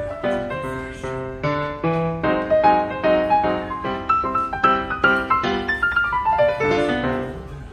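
Solo piano background music: notes played one after another, several a second, in a running line that falls in pitch near the end.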